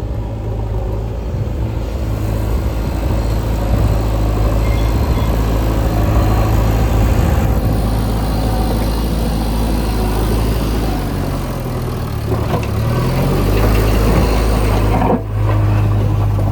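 Heavy diesel construction machinery running steadily, its engine rising in pitch briefly about twelve seconds in.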